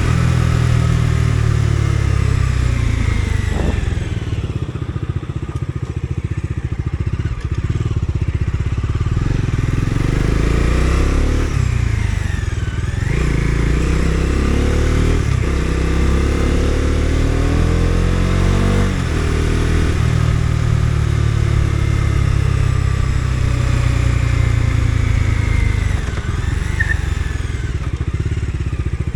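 Bajaj Dominar 250's single-cylinder engine pulling a motorcycle along on the road, its pitch falling and climbing again several times with throttle and gear changes, under wind noise.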